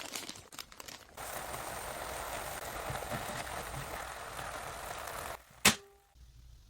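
King oyster mushrooms sizzling in a frying pan, a steady hiss, followed near the end by one sharp click after which the sizzle stops.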